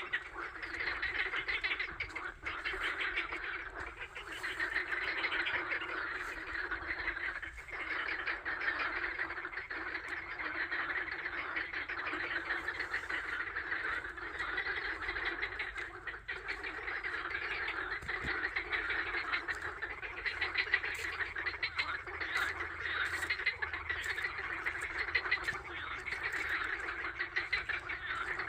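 A flock of ducks calling together, many quacks overlapping in a dense, continuous chorus.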